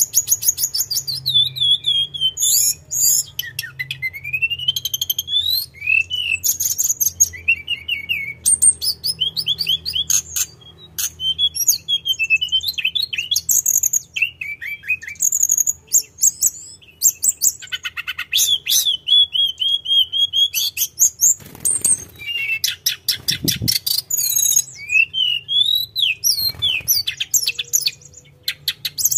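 Tledekan gunung singing without pause: a long, varied run of high whistles, fast trills and sliding notes, phrase after phrase.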